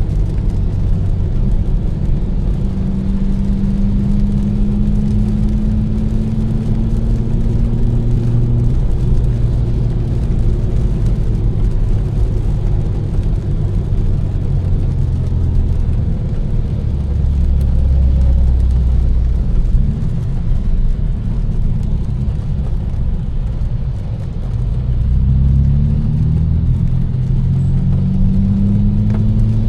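Tuned BMW M4's twin-turbocharged straight-six, with catless downpipes and an Fi exhaust, driving under light throttle over steady tyre noise on a wet road. The engine note rises slowly for the first several seconds, settles to a low drone in the middle, then rises again in short steps near the end as the car accelerates through the gears.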